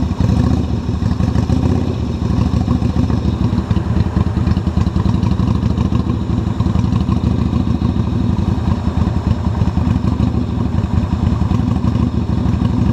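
Yamaha XV250 Virago's air-cooled V-twin engine idling steadily, just brought to life by a jump start on a flat battery.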